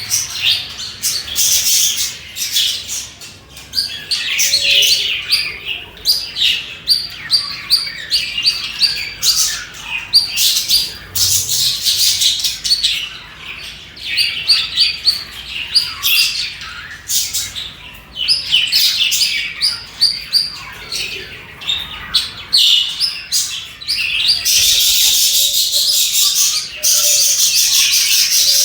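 Budgerigars chirping and chattering in quick, busy runs of high notes. Near the end a steady scratchy hiss joins them.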